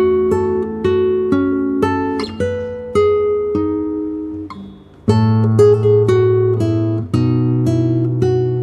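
Acoustic guitar music: a plucked, fingerpicked passage of single notes over low bass notes. The notes die away about four and a half seconds in, then a new phrase begins with a low bass note.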